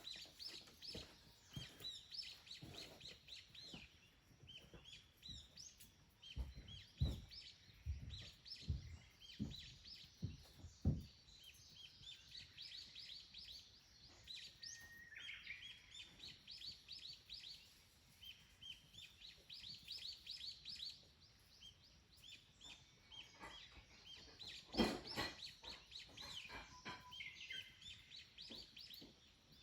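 Small wild birds chirping in quick runs of short, high notes throughout. A handful of dull knocks come about a quarter of the way in, and one louder knock comes near the end.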